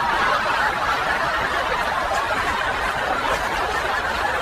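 Several people laughing together in a steady, continuous wash of chuckling.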